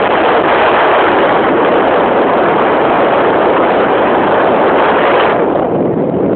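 Strong wind buffeting the microphone high up on a tower: loud, steady rushing noise. The rushing thins out about five seconds in as a gust eases.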